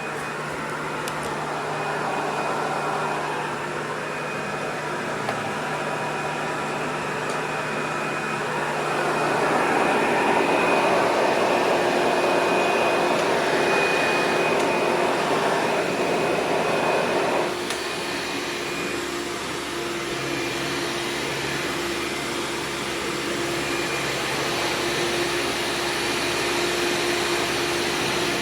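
Hoover Supreme PowerDrive upright vacuum cleaner running steadily, a motor drone with a thin high whine. It grows louder about a third of the way in and drops back suddenly about two-thirds through.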